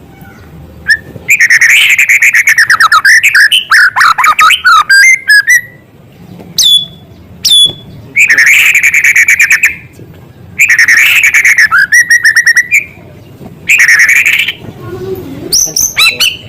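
White-rumped shama (murai batu) singing in a string of loud phrases of rapid repeated notes and trills, with short pauses between them and two sharp falling whistles about seven seconds in. The song is stuffed with imitations of small birds' calls.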